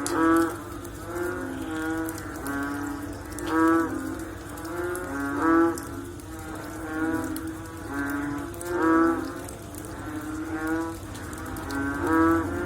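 A chorus of frogs after rain, several calling over one another with low, cow-like calls that repeat every second or two, a few of them louder.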